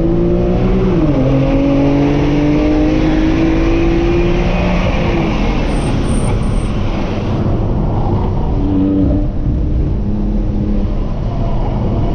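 BMW M2 CS twin-turbo inline-six heard from inside the cabin under hard acceleration, with a quick upshift about a second in. The engine note then climbs steadily until about five seconds in and falls away as the car slows for a corner, and the road and wind noise eases with it. Three short high beeps come about six seconds in.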